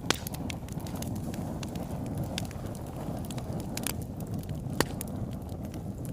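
Wood fire burning in a fireplace: a steady low rumble of flames with scattered sharp crackles and pops, the loudest just after the start and about five seconds in.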